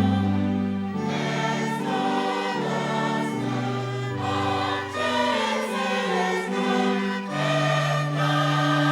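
Mass choir singing a hymn in sustained harmony, held chords changing every second or two over a low bass line.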